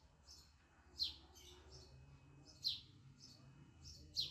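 A faint bird chirping: short, high, falling chirps about every one and a half seconds, with fainter calls between.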